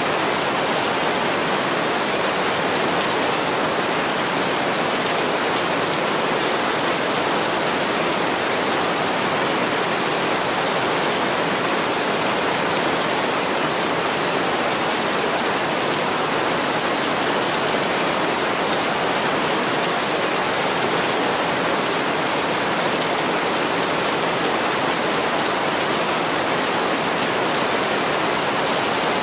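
Heavy rain pouring steadily against a window pane, an even, unbroken hiss.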